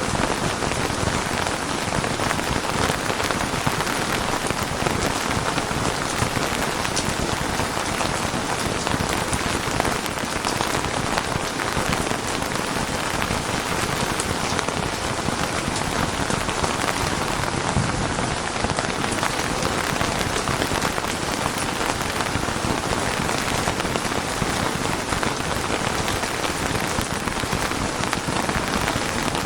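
Steady, heavy rain falling on a surface: a dense, even hiss of many raindrops.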